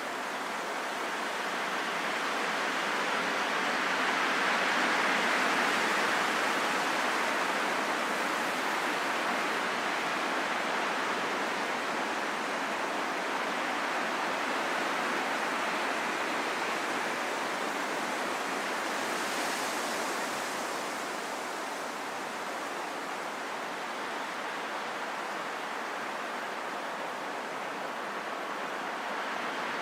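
Steady wind blowing, a smooth rushing hiss that swells a little about five seconds in and then eases back.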